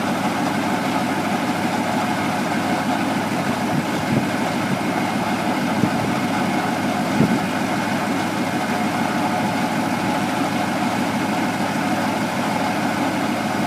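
Truck engine idling steadily, with a few faint knocks.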